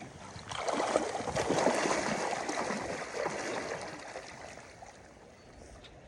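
Water splashing and sloshing around a netted brown trout held in the river, building about half a second in and dying away after about four seconds.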